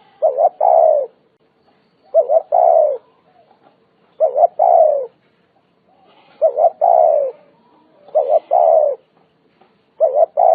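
Spotted dove cooing over and over: each phrase a short coo followed by a longer falling coo, repeated about every two seconds, six times.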